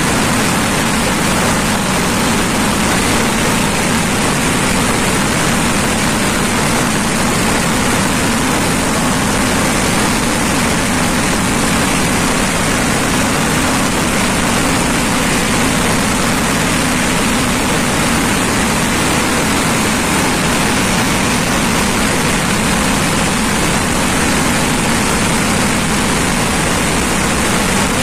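Dense fireworks barrage: aerial shells and firecrackers going off so quickly that the bangs merge into one steady, loud din.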